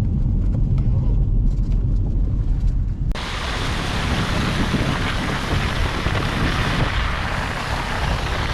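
Low, steady road rumble inside a small car for about three seconds, then a sudden cut to a loud, steady rushing noise of wind on the microphone.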